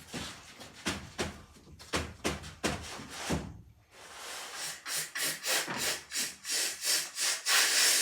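A few irregular knocks, then rhythmic back-and-forth scraping strokes, about three a second, growing louder toward the end, like hand sawing or rubbing on wood or board.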